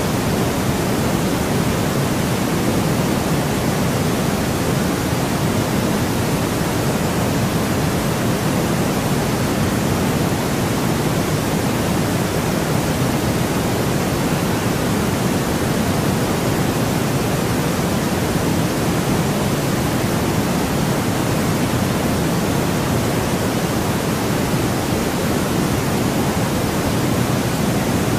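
Steady generated white noise: an unbroken, even rush with a fuller low end than a thin hiss, never changing.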